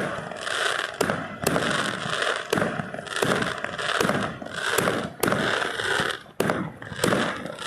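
Fireworks going off in quick succession: about ten sharp bangs, roughly every half second to a second, with dense crackling noise filling the gaps between them.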